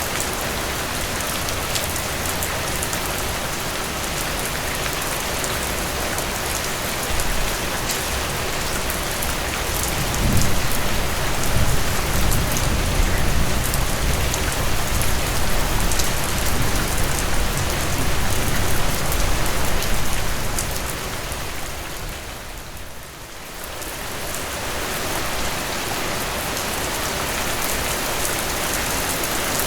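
Steady heavy rain falling, a dense even hiss with scattered sharp drop ticks. A deep low rumble swells in about a third of the way through and fades after ten seconds or so. Near three-quarters through, the sound briefly dips quieter and then returns.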